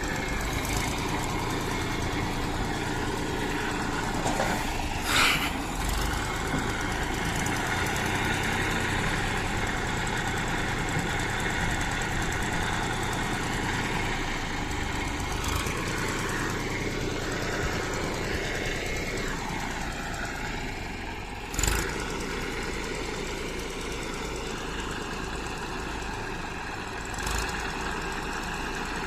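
Engine of heavy farm or earthmoving machinery running steadily at idle, with three sharp knocks, two of them loud, about five seconds in, about two-thirds of the way through and near the end.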